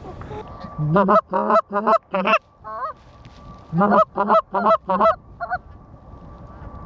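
Goose honks in two quick runs of four or five loud, short honks each, with a pause of about a second between the runs.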